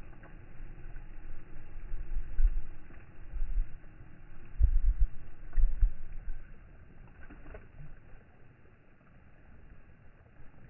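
Wind gusts buffeting the microphone in irregular low rumbles over a steady rush of sea water. The gusts die down in the second half.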